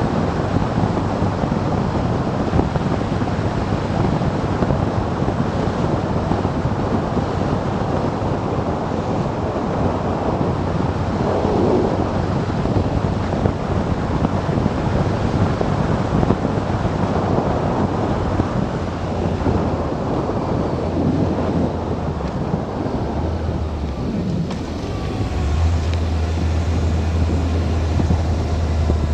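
Wind rushing over the microphone of a moving motorcycle, with the bike's engine running as a steady low hum underneath. Near the end the wind eases a little and the engine note comes through more strongly.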